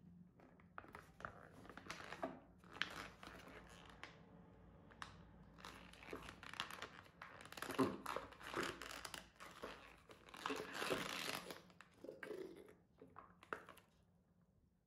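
Irregular crinkling and rustling, like packaging or paper being handled, with scattered light clicks and knocks; it thickens in the middle and dies away near the end.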